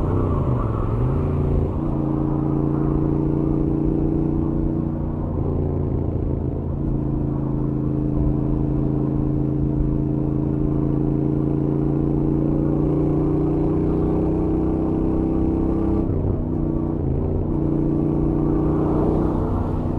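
Royal Enfield Interceptor 650's parallel-twin engine through its stock exhaust, running at steady highway cruise. The engine note dips briefly and climbs back near the start and again about 16 seconds in.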